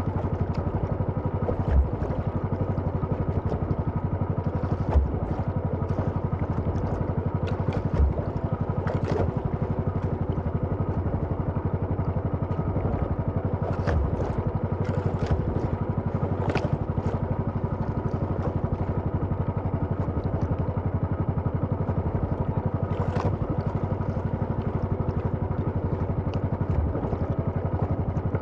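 Small engine, likely a fishing boat's motor, running steadily at constant speed, with a few short knocks over it.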